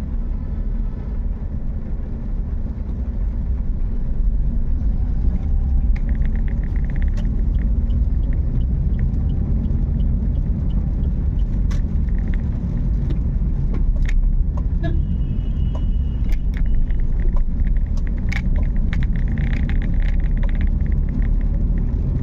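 A car driving in the rain: a steady low road-and-engine rumble with scattered sharp ticks of raindrops striking the car, and a hiss of tyres on the wet road that swells twice.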